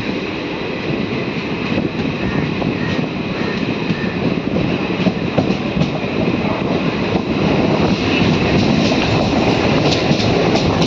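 Train running at speed, heard from its open doorway: steady rumble and rattle of wheels on track, with scattered sharp clicks. From about eight seconds in it grows louder as an oncoming Chennai suburban EMU train passes close alongside on the next track.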